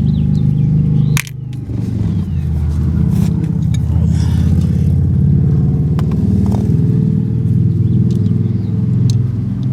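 A steady, loud low engine-like drone, briefly dropping away about a second in, with a few faint clicks over it.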